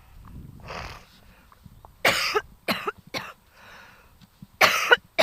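A woman coughing from a cold: a breath in, three harsh coughs about two seconds in, another breath, then two more loud coughs near the end.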